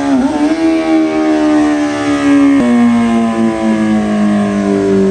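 Sportbike engine at high revs, its pitch falling slowly as it winds down, with a sudden drop in pitch about two and a half seconds in.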